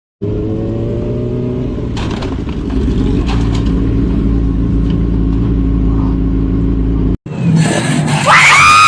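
Motor vehicle engine running with a steady low rumble. About seven seconds in it cuts off abruptly, and a louder, noisier scene follows with a few short, high rising-and-falling cries near the end.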